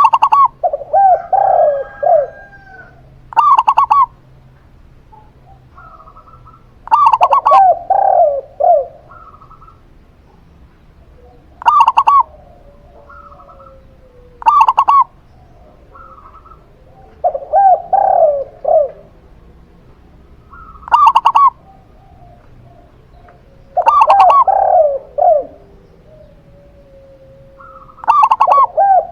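Zebra dove and spotted dove cooing in turn, a phrase every few seconds. Short higher coos alternate with longer runs of lower, falling notes.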